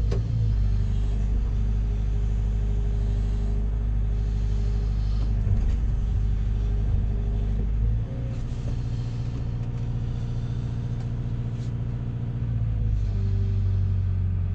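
Backhoe's diesel engine running steadily with a deep, even drone. It eases down in level about halfway through.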